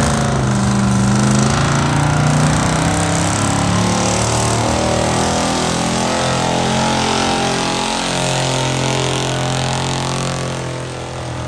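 Street gas pickup truck engine running hard at high revs while pulling a weighted sled, its pitch shifting a few times and the sound easing near the end.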